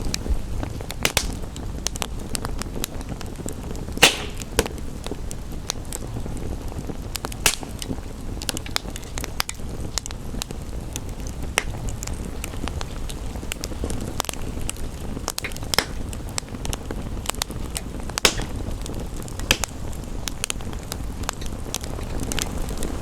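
Wood fire crackling in a fireplace, with irregular sharp pops and snaps (the loudest about four seconds in) over a steady low rushing bed of rain.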